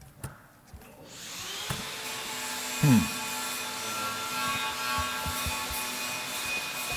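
A steady mechanical whirring that starts about a second in and holds several tones, with one short falling squeak about three seconds in.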